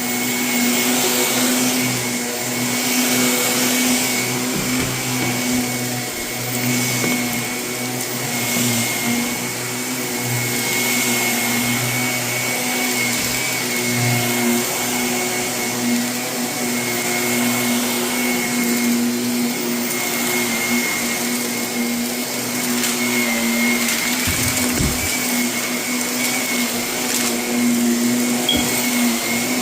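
Vacuum cleaner running steadily over carpet, its motor note constant while the suction noise swells and eases with each push-and-pull stroke, picking up gritty debris left from renovation work.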